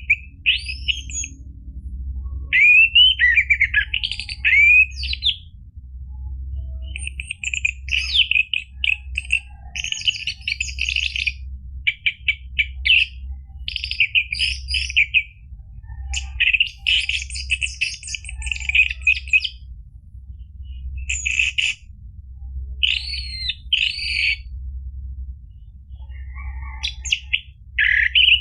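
Orange-headed thrush singing a string of varied phrases, some whistled glides and some rapid chattering runs, with short pauses between them. A steady low hum runs underneath.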